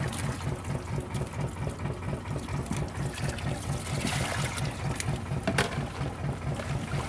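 Boat engine running at idle with an even low thudding of about six beats a second. A short rush of water about four seconds in and a sharp knock a little after.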